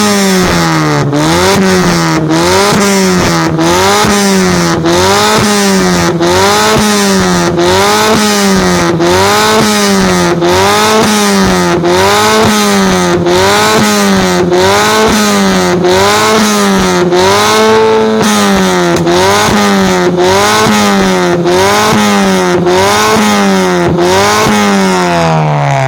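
Honda Brio's four-cylinder engine blipped over and over through a full aftermarket HKS exhaust system, its note rising and falling about once a second, with the revs dropping away near the end.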